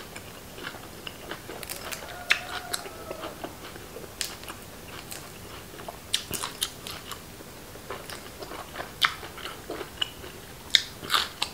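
A person chewing and biting a big mouthful of food close to the microphone, with irregular wet mouth clicks and crunches.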